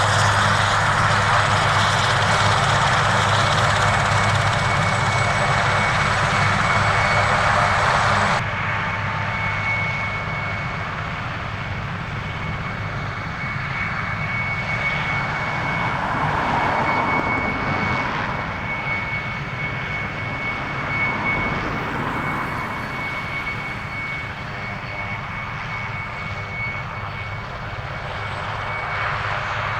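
Aircraft engine noise, loud and steady for about eight seconds, then dropping suddenly to a quieter steady running with a thin high whine.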